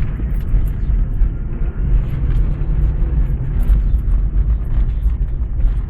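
A two-wheel-drive car driving on through snow: a steady low rumble of engine and road noise, with scattered faint ticks.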